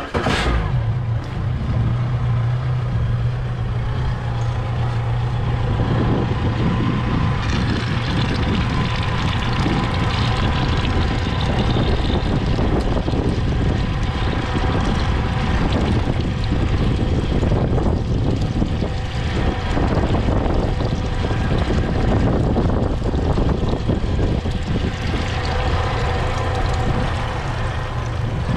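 Yamaha 24 Siesta boat engine starting right at the beginning, catching almost at once, then running steadily.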